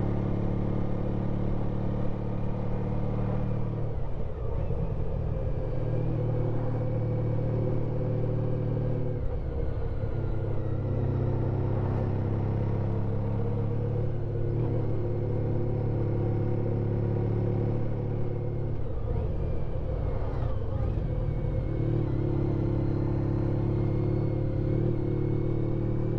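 Honda Pan European ST1300's V4 engine running under way on a climbing road, a steady engine note that drops and picks up again a few times, with road and wind noise.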